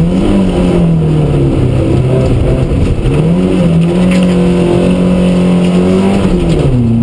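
Rally-prepared 1400cc Mk2 Vauxhall Astra's four-cylinder engine, heard from inside the cabin, pulling hard on a stage. Its pitch falls off as the car slows, climbs back about three seconds in and holds steady, then drops again near the end.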